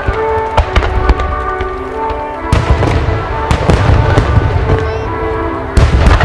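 Aerial fireworks shells bursting in repeated sharp cracks and booms, with deep rumbling blasts about two and a half seconds in and again near the end, over music played on the show's loudspeakers.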